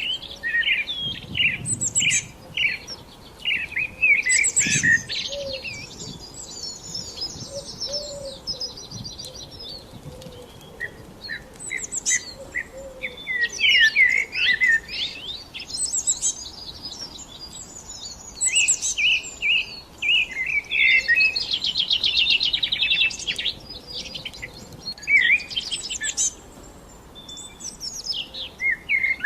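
Several songbirds singing and chirping together, a dense mix of short sweeping chirps broken by rapid buzzy trills twice, about a third of the way in and again about three quarters of the way in.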